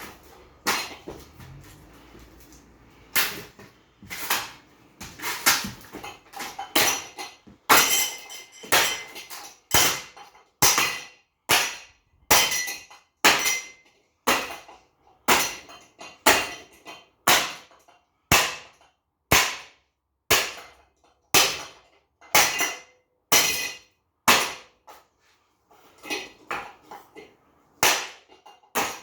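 An SMC-Wattmaster ceiling fan being smashed apart with repeated hard blows, a little more than one strike a second, each sharp with a brief ring, with a short pause a couple of seconds in and another near the end.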